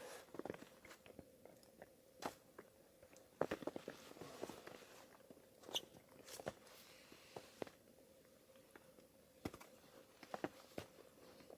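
Irregular, quiet crunches, clicks and knocks, some in quick clusters, over a faint steady hum.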